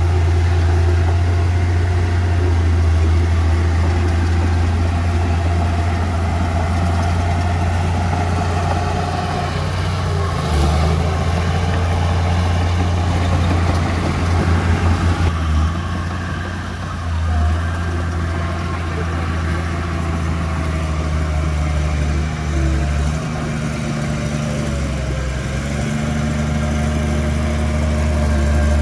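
The diesel engine of a construction machine runs steadily with a deep drone, its pitch shifting a little as it works. Briefly, about halfway through, there is a rapid even pulsing.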